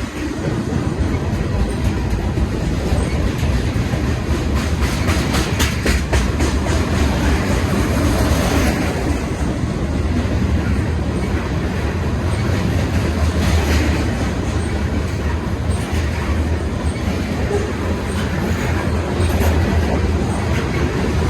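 A train rolling past with a steady low rumble and wheels clattering over the rail joints, with a run of sharp clicks about five to seven seconds in.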